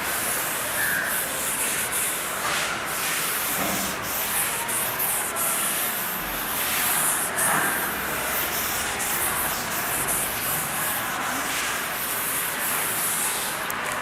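Continuous scratchy rubbing noise with a hiss, broken by many small irregular strokes.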